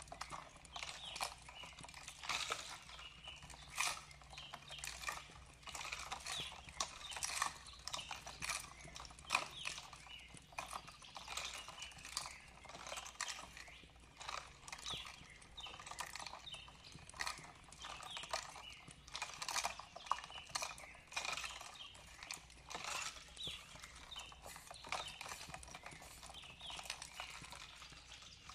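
Wood fire crackling in a fireplace: a dense, irregular run of sharp pops and snaps.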